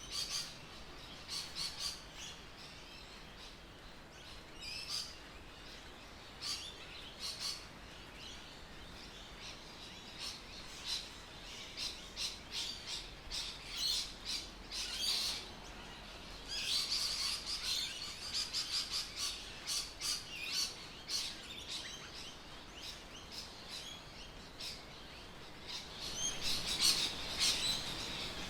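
Birds chirping and calling, with many short high notes that grow dense about two-thirds of the way in and again near the end, over a faint steady background hiss.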